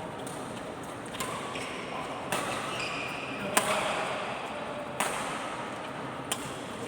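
A rally of racket hits in a doubles match: five sharp strikes about a second and a quarter apart, each with a short ring in a large hall, and a few brief squeaks near the middle.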